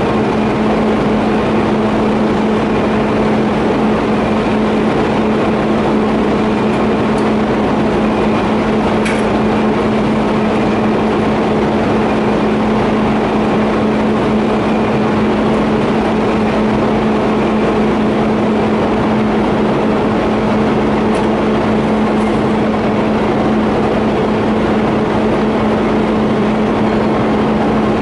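TIG welding arc on a steel pipe flange and elbow joint: a steady hiss with a constant low hum, held without a break.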